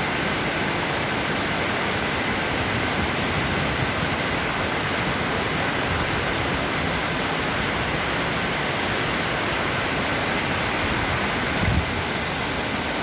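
Waterfall with water rushing and crashing in a steady, unbroken roar of noise.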